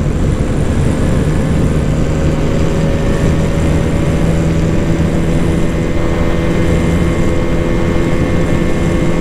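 Bajaj Dominar 400's single-cylinder engine pulling hard in fourth gear. Its pitch climbs slowly and then holds steady as it nears its fourth-gear rev limit, over heavy wind rush on the microphone at highway speed.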